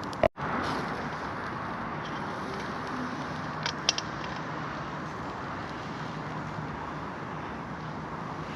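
Campfire crackling: a steady hiss with a few sharp pops, two close together a little before the middle. The sound cuts out for a moment near the start.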